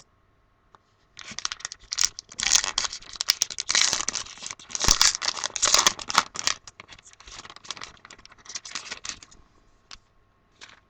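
A 2015 Topps Gypsy Queen baseball card pack's wrapper being torn open and crinkled. The dense crackling starts about a second in, is strongest in the middle and dies away about nine seconds in.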